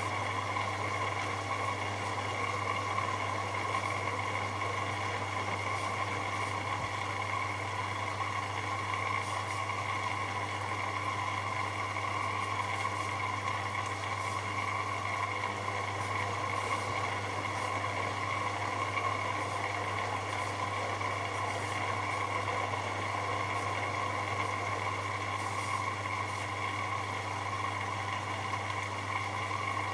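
AEG Lavamat L74810 washing machine running steadily: a constant hum with a steady higher whine from its motor, without pause or change in speed.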